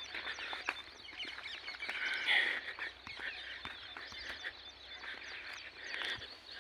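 A large flock of parrots calling, many short overlapping chirping calls, with a louder cluster of calls about two seconds in.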